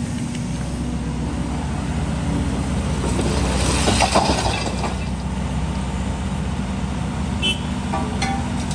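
Heavy diesel construction machinery running steadily, with a louder stretch of scraping and clattering about three to four and a half seconds in and a few short clicks near the end.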